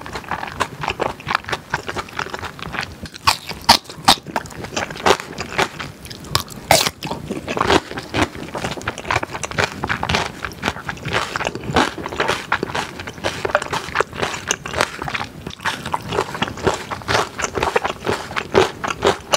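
Close-miked chewing of food, with many sharp crunches and the odd scrape of a spoon in a glass bowl.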